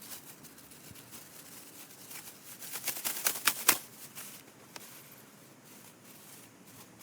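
Crinkling and rustling as a small car trash can and its packaging are handled and set up. A quick run of sharp crackles and snaps comes about three to four seconds in, with one more click shortly after.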